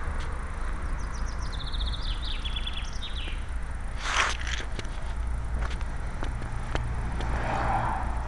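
A small bird sings a short trill of quick repeated high notes between about one and three and a half seconds in, over a steady low rumble. A brief noisy burst comes near the middle, with scattered clicks.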